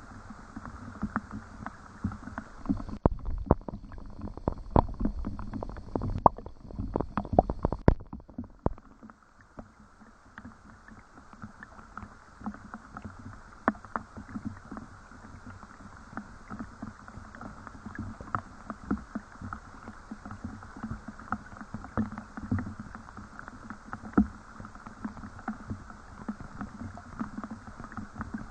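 Rain falling, with scattered drops pattering irregularly. It is louder and denser for a few seconds from about three seconds in, then settles back to a lighter, even patter.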